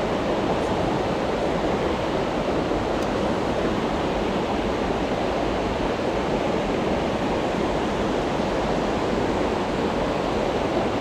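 Mountain stream water running, a steady even noise that holds unchanged throughout.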